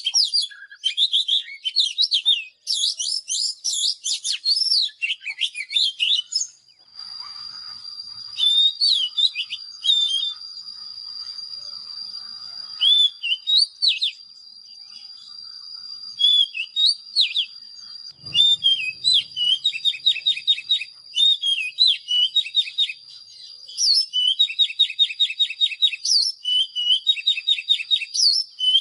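Oriental magpie-robin singing: a varied run of clear whistled notes, slurs and fast repeated trills. A rapid dense burst opens the song, then it breaks into separate phrases. From about six seconds in, a steady thin high tone sounds beneath the song.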